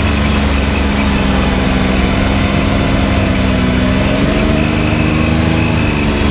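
Can-Am Maverick X3 side-by-side's turbocharged three-cylinder engine running steadily at low speed on the trail, its note rising a little about two-thirds of the way through and easing back near the end.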